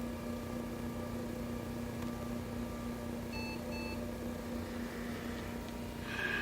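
Steady hum from a freshly powered-up atomic absorption spectrophotometer, with two short electronic beeps a little past halfway.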